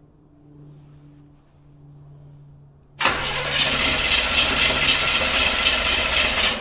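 A carbureted car engine being cold-started: after a faint steady hum, the starter engages about three seconds in and the engine fires and keeps running loudly.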